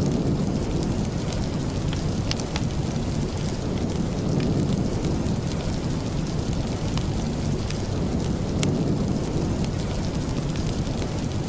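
Steady rain with a dense low rumble, with scattered sharp ticks throughout.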